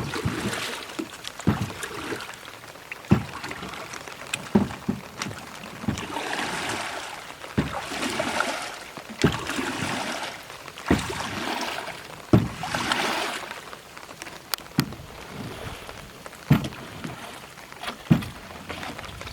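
Hoe or spade chopping into the muddy bank of a fish pond, a thud every one to two seconds, with swishes of wet mud and water in between, as a cut is opened to let the pond drain.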